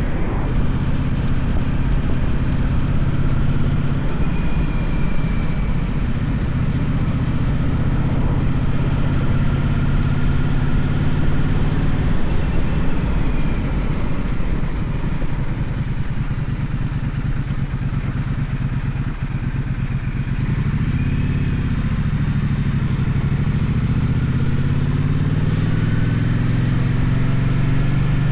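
Gaokin GK1200 motorcycle engine running under way with wind rush, holding a steady note for most of the time, easing off about two-thirds through and then climbing in pitch again near the end.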